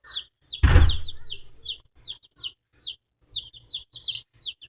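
Chicks peeping: a steady run of short, high, falling chirps, about three a second. A single loud thump sounds near the start.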